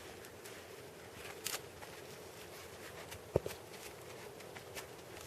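Logs being set upright and shifted against each other: faint scattered clicks and rustles, with one sharper knock about three and a half seconds in.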